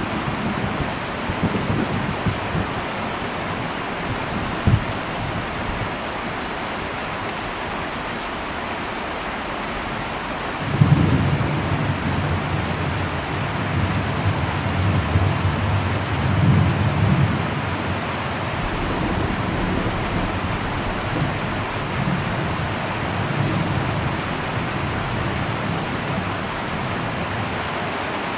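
Heavy rain falling steadily on an old metal roof, with a single sharp knock a few seconds in. Low rolling thunder starts rumbling about a third of the way in and comes and goes after.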